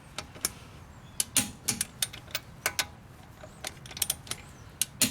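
Irregular light clicks and knocks of hand tools and metal parts being handled, about a dozen scattered over a few seconds.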